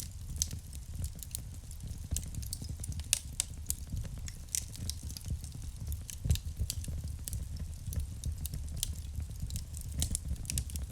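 Wood fire burning in a fireplace: irregular sharp crackles and pops of burning wood over a steady low rumble of the flames.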